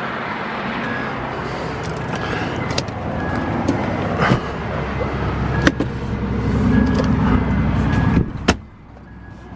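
The 2006 Honda Ridgeline's V6 running, a steady low rumble that grows louder over the second half, with scattered clicks and knocks. The sound drops away suddenly about eight and a half seconds in.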